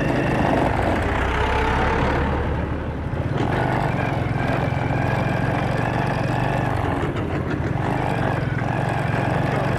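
Motorcycle engine running steadily while being ridden, under a constant rush of noise.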